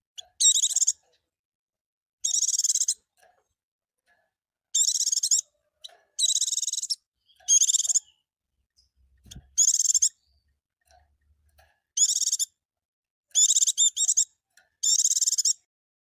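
A pleci (white-eye) singing: about nine short, high-pitched twittering song phrases, each under a second, with brief silent gaps between them.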